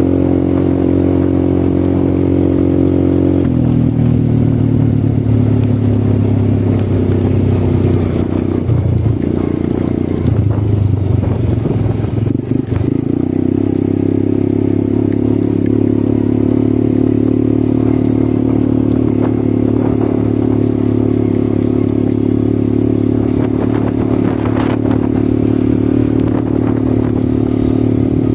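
ATV engine running at a steady pace. Its pitch drops a step about three seconds in, wavers unevenly for a few seconds around the middle, then holds steady again.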